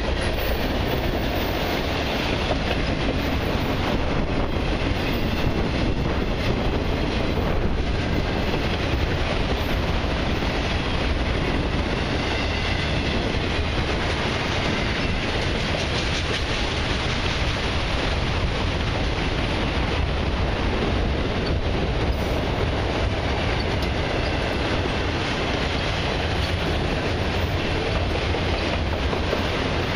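Freight train of autorack cars rolling past close by: steady noise of steel wheels on the rails with a clickety-clack over the joints.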